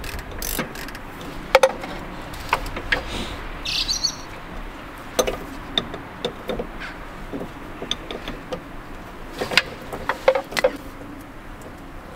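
Scattered metallic clicks and knocks of hand tools on a Mercedes W203 rear sway bar link being unbolted from under the car, with one short high chirp about three and a half seconds in.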